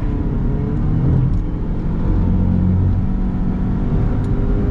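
Car driving: steady engine and road rumble heard from inside the cabin.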